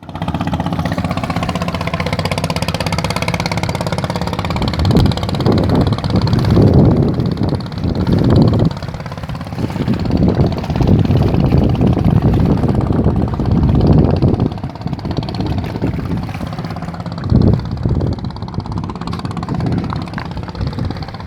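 A small engine running steadily, with a series of louder rushing surges between about five and fifteen seconds in and once more near the end.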